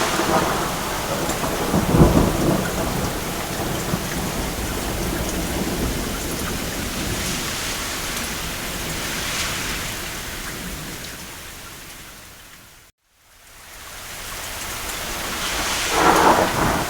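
Steady rain with a thunder rumble about two seconds in. The storm fades out to silence a little after the middle, then fades back in, swelling with more thunder near the end.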